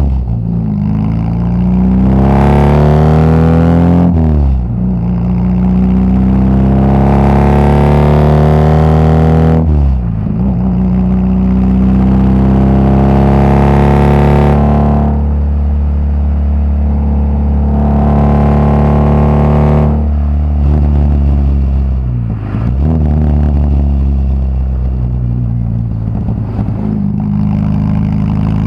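VW Gol G2's AP four-cylinder engine through a straight-through exhaust with no muffler, pulling hard under load. The pitch climbs twice and drops sharply at each gear change, then holds at a steady cruise with one brief dip later on.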